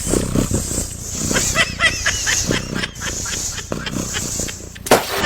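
Animal calls: many short, high-pitched cries in quick succession over a steady hiss, with a sharp click near the end.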